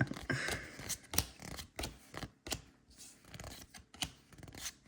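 Pokémon trading cards being handled and flipped through: scattered light clicks and rustles of card stock.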